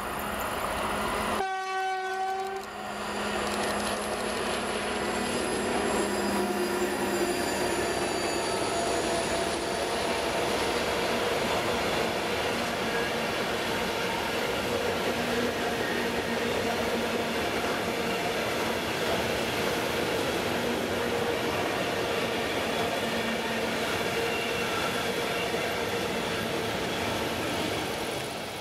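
A class 232 'Ludmilla' diesel locomotive comes by with a tank-wagon freight train. It sounds a short horn blast about two seconds in, then the long train of tank wagons rolls past with a steady rumble and clatter that fades near the end.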